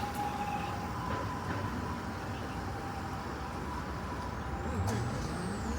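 Steady vehicle noise. Near the end a motor whine rises in pitch as a vehicle speeds up.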